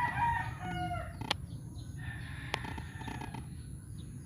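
A rooster crowing, a call with a falling end in the first second, followed by a second crow about two seconds in. Two sharp clicks fall between them.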